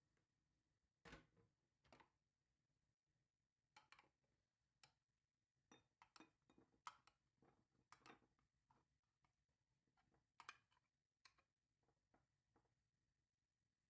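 Faint, irregular clicks and light knocks of small objects being handled and set down, about a dozen spread unevenly.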